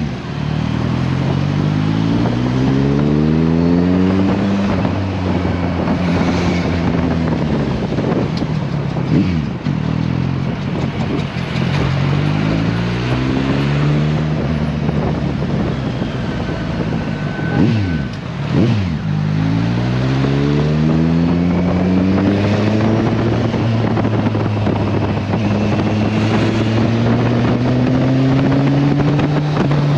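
Kawasaki Versys 1000's inline-four engine pulling hard through the gears: its pitch climbs, drops at each shift, and climbs again several times. A few brief swishes cut in about 9 and 18 seconds in.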